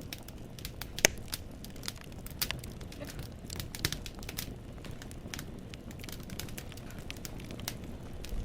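Wood fire in a fireplace crackling: irregular sharp pops and snaps of burning logs over a low, steady rumble of flame, with the loudest pop about a second in.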